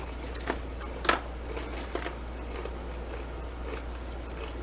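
Close-up chewing of over-crisped fried fast food, with a few short crunches, the loudest about a second in; it got too crunchy from being kept warm.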